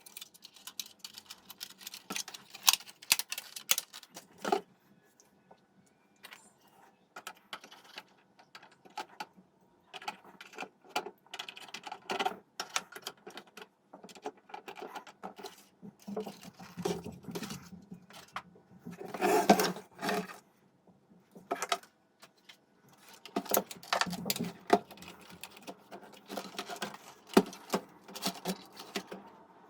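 Hand work on small plastic and metal parts of a hi-fi unit: irregular clicks, rattles and scrapes with short pauses between them, loudest around nineteen seconds in.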